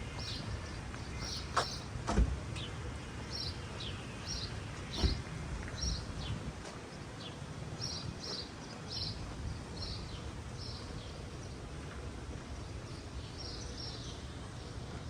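Small birds chirping in short, repeated high calls over a steady low outdoor rumble, with two sharp knocks early on.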